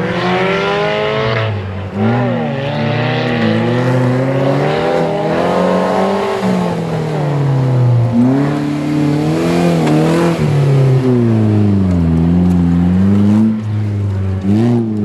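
Suzuki Grand Vitara off-road racing car's engine revving hard under load as it climbs a steep dirt slope, the pitch rising and falling again and again as the throttle is worked.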